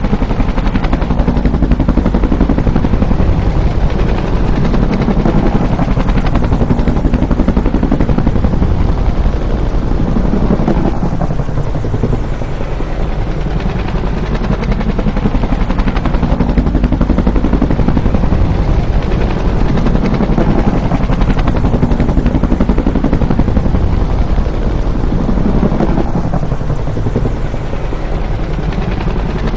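Bell UH-1 "Huey" helicopter flying by, its two-bladed main rotor beating in a rapid, steady thumping over the turbine noise. Loud throughout, with slight dips in level about eleven seconds in and again near the end.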